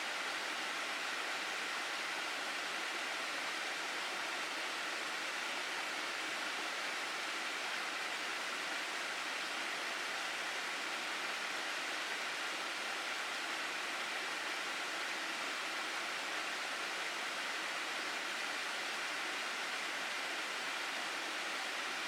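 Steady rushing of water in a gorge stream, an even unbroken hiss with no changes.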